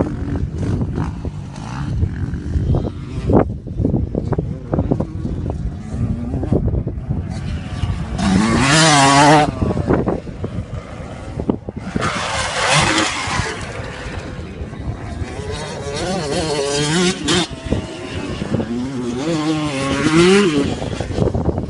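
Motocross motorcycles racing past, engines revving up and down through the gears. Four loud passes come about 8, 12, 16 and 20 seconds in, with wind rumbling on the microphone between them.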